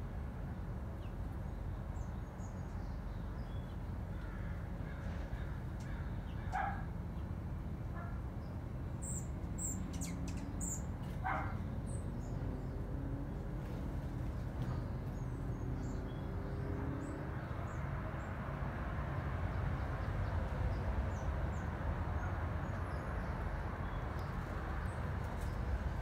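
A bird giving two short calls, about six and a half and eleven seconds in, with a few faint high chirps between them, over a steady low background rumble.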